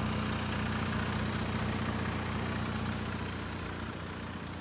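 MK7 Volkswagen Golf GTI's turbocharged 2.0-litre four-cylinder idling steadily with the A/C on, heard from just outside the car. The clutch chatter of its DKM Stage 2 MB single-disc clutch is barely audible under the idle.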